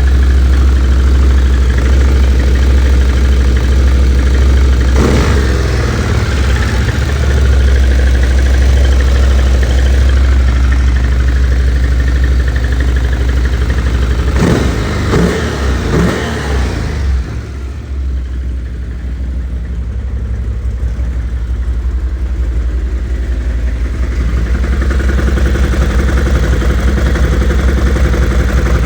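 Stels Guepard 800 ATV engine running with the knock that the owner is showing. It idles steadily, is revved briefly about five seconds in and a few times around fifteen seconds, then settles back to idle.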